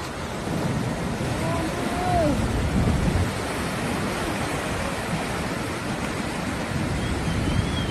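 Fast-flowing floodwater rushing steadily, with wind noise on the microphone.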